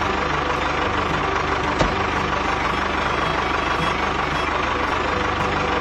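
Engine of a homemade mini tractor running steadily at idle with an even, fast pulse, with a single click about two seconds in.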